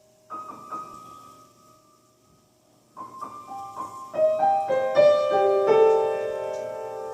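Piano: two notes struck and left ringing, then after a pause a run of notes played one after another about three a second, building into a sustained chord that slowly fades.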